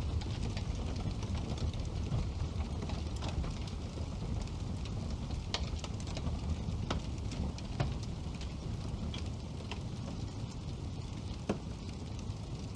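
Wood fire burning in a fireplace: a steady low rumble of flames with scattered sharp crackles and pops, a few louder pops partway through.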